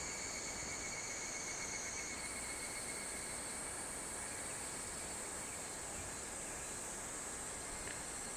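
Evening insect chorus: a steady high-pitched shrilling of several insects over a soft even hiss, the highest voice stepping up in pitch about two seconds in.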